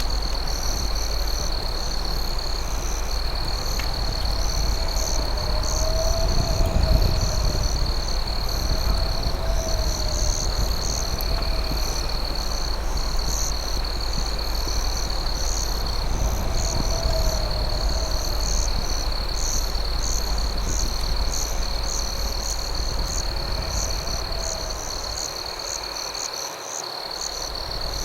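Night insect chorus: crickets trilling steadily at a high pitch, with faster pulsing chirps above, and a wavering lower call that comes back every few seconds. A low rumble runs underneath and dips shortly before the end.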